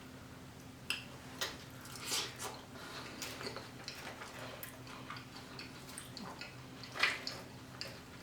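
Close-miked wet chewing and lip smacks from a mouthful of food: scattered short, clicky smacks, a louder one about seven seconds in, over a faint steady hum.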